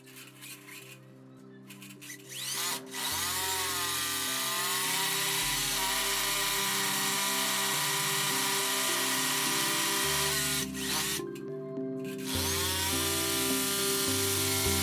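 An electric motor spins up with a rising whine about two and a half seconds in, then runs steadily. It stops briefly near two-thirds of the way through and spins up again. Background music plays underneath.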